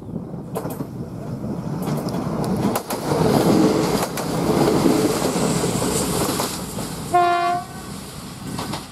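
Diesel railcar approaching, its engine and wheel noise growing louder with scattered clicks from the rails. About seven seconds in it gives one short horn blast on a single pitch.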